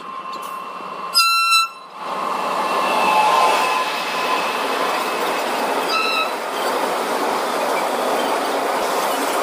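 A train horn blasts once for about half a second, about a second in, then a train runs through with a steady rushing noise of wheels on rail. A second, shorter horn toot comes about six seconds in.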